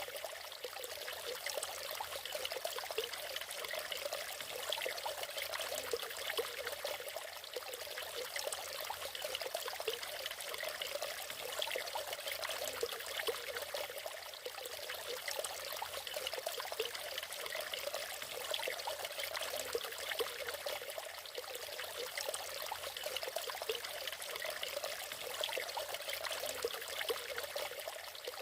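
Water from a small natural waterfall, splashing and trickling over rocks in a steady, unbroken rush, its sound lying mostly in the middle and high pitches with little deep rumble.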